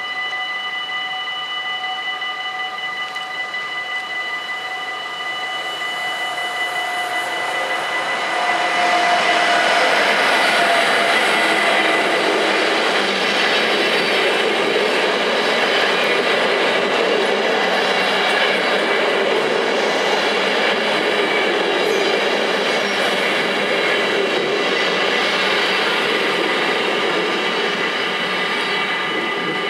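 Dutch automatic level-crossing (AHOB) bells ringing steadily while the IC Brussel passenger train, an electric locomotive hauling carriages, approaches and passes over the crossing. Its rail rumble and wheel noise swell from about six seconds in and are loudest from about nine seconds on.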